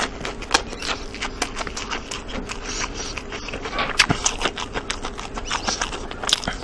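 Close-miked eating: chewing and biting into food, heard as an irregular series of sharp crunchy clicks, with a louder bite about four seconds in.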